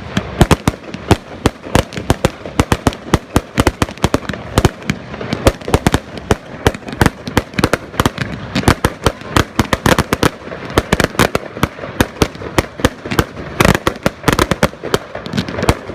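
Fireworks display going off: a dense, rapid string of bangs and cracks, several a second without a break.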